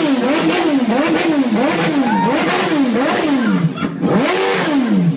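An engine revved up and down over and over, its pitch rising and falling in even swells about every half second, then cutting off near the end.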